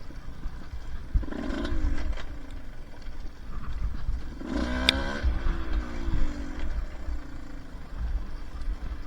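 Two-stroke dirt bike engine revving in two spells, about a second in and again through the middle, its pitch sliding as the throttle opens and closes, over a steady low rumble.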